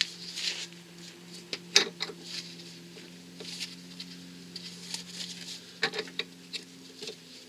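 Light, scattered metallic clicks and taps from parts and tools being handled as the drive shaft is worked out of the front wheel hub, over a faint steady hum.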